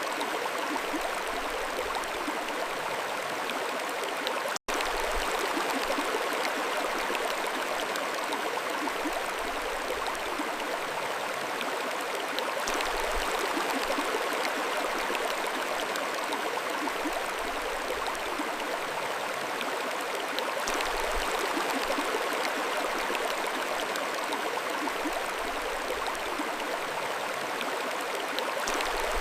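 Mountain stream flowing, a steady rush of running water with no change in strength. The sound cuts out for an instant about five seconds in.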